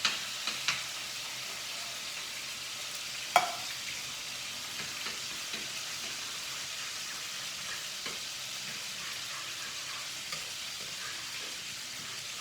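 Chicken and cream of mushroom sauce sizzling in a frying pan over low heat, a steady hiss. There are a few clicks near the start, and a sharp clink with a short ring about three seconds in.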